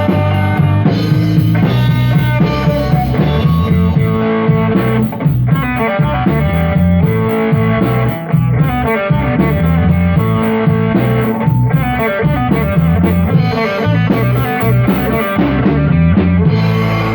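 Rock band playing live, guitar and drum kit together in a steady instrumental passage.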